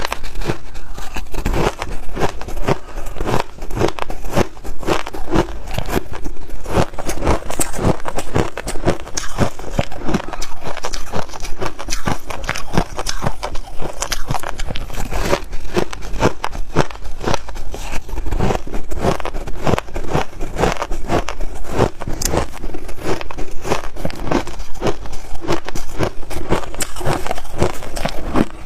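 A person biting and chewing frozen snow ice in loud, rapid, crackling crunches.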